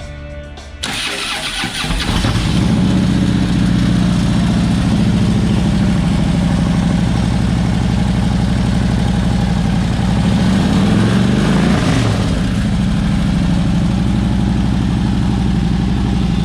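2013 Harley-Davidson Street Glide's Twin Cam 103 V-twin turning over on the electric starter and catching about two seconds in, then idling steadily through its Vance & Hines aftermarket exhaust. The throttle is blipped once about eleven seconds in, the pitch rising and falling back to idle.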